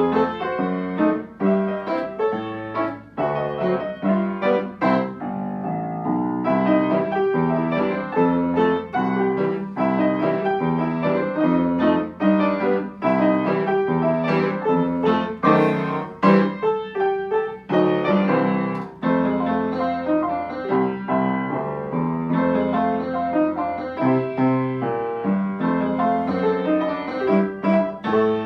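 Piano playing a ragtime piece, chords and melody over a bass line, beginning abruptly at the very start.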